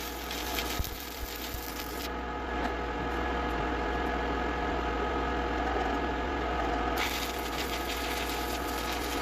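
Shielded metal arc (stick) welding: the arc crackling and buzzing steadily over a constant hum. The high hiss eases off from about two seconds in and comes back near seven seconds.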